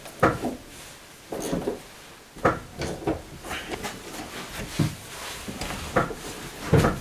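Irregular knocks and clunks, about one every second, from taking the seats out of an Opel Kadett D: tools and seat hardware being handled inside the car.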